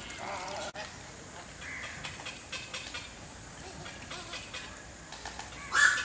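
Zoo aviary birds calling, scattered and faint, with one short, loud squawk near the end.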